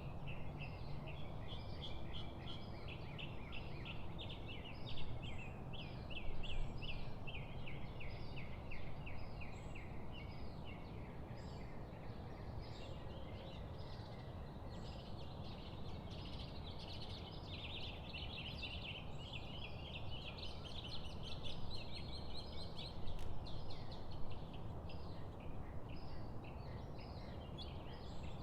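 A chorus of many birds chirping and chattering rapidly and without a break, over a steady low background noise.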